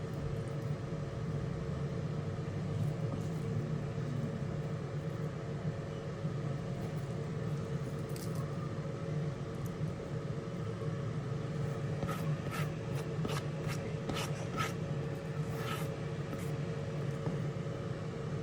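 Steady low background hum of a kitchen, with a few light clicks and taps about two-thirds of the way through.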